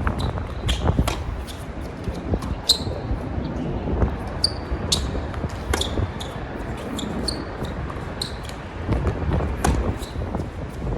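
Tennis balls struck by rackets and bouncing on a hard court during a rally: a string of sharp pops about a second apart. Wind rumbles on the microphone underneath.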